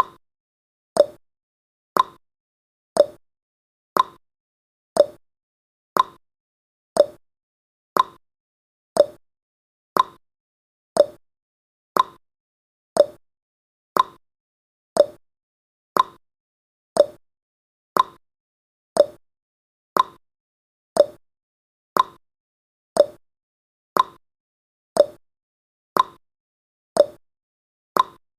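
Clock ticking sound effect, one tick every second, alternating between a higher tick and a lower tock.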